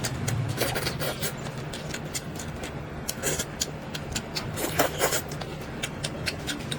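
Close-miked eating: irregular wet smacks and clicks of chewing, over a low steady hum.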